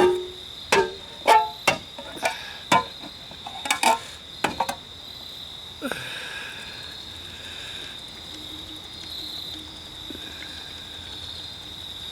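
Crickets chirping in a steady high drone, with a run of about a dozen sharp clinks and knocks, some briefly ringing, over the first five seconds and one more knock about six seconds in.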